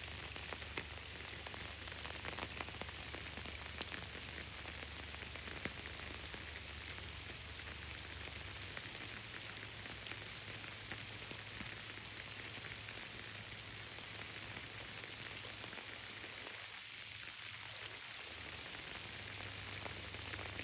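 Rain falling steadily, a constant hiss with scattered individual drops ticking through it. A low hum lies underneath, dropping away about midway and coming back near the end.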